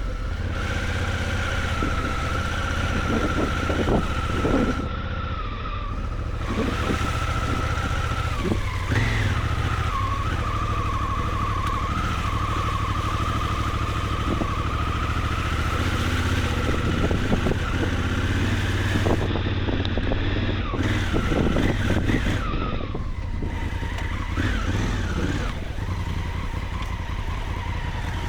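Honda Africa Twin adventure motorcycle running on a dirt track, its engine note rising and falling with the throttle. Short knocks and rattles come from the rough ground at several points.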